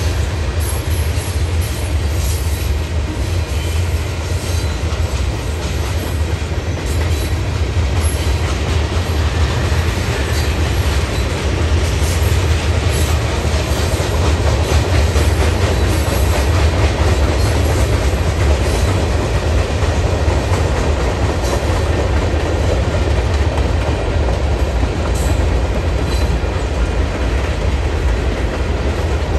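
Freight cars of a manifest train, mostly tank cars and covered hoppers, rolling past: a steady rumble of steel wheels on rail with scattered clicks over the joints.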